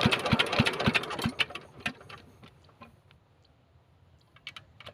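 Engine of a village water pump running with slow, heavy beats that spread out as it slows, then coming to a stop after about a second and a half, followed by a few faint clicks.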